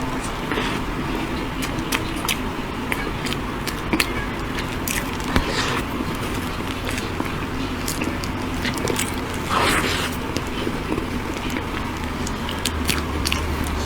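Close-miked eating sounds: biting and chewing cake, with many small sharp clicks and a few brief wet smacks, over a steady low background hum.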